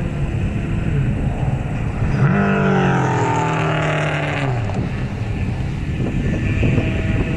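Race car passing close by on track, its engine note coming in loud about two seconds in and dropping in pitch as it goes away, fading by about five seconds, over a steady low rumble of other cars.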